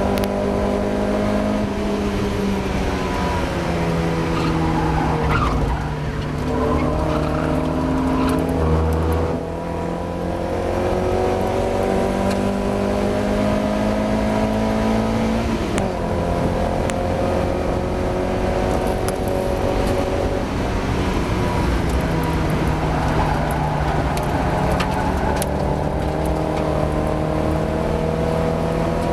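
Mazda MX-5 race car engine running hard. Its pitch falls away a few seconds in as the car slows, then climbs steadily, with a sharp drop at a gear change about sixteen seconds in before it climbs again.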